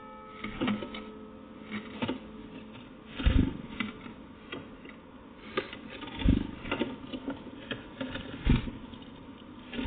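Irregular taps and knocks, as of birds pecking and hopping on a feeder, with three heavier thumps spread through.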